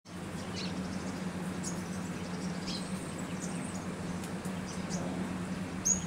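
Small birds chirping in short, high notes scattered throughout, the loudest one near the end, over a steady low hum.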